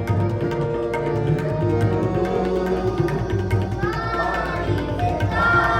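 Kirtan: a shabad sung to tabla, with steady held tones under it and voices coming in about four seconds in and again near the end.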